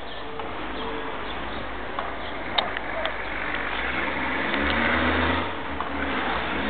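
A dove cooing in short low notes, over a steady low rumble and hiss that swell about two-thirds of the way through.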